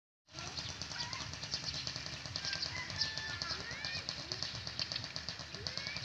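Birds chirping, with short whistled rising and falling notes over a dense, fast ticking, cutting in about a third of a second in.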